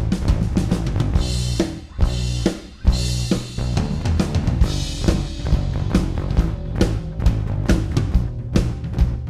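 A drum-and-bass recording played back through compressor plugins: a fast, busy drum kit with kick, snare and cymbals over a stepping bass line. The music thins out briefly about two seconds in and comes back with a hard hit.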